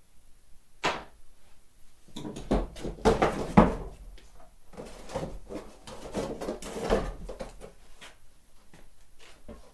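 Knocks and clatter of hand work on a car trailer being dismantled: a single sharp knock about a second in, then a busy run of clanks and knocks, loudest a little past the middle, tailing off into a few scattered knocks.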